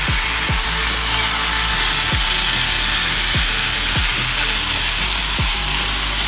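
A steady, loud hissing power-tool noise with music playing under it, the music carrying a low falling thump every second or so.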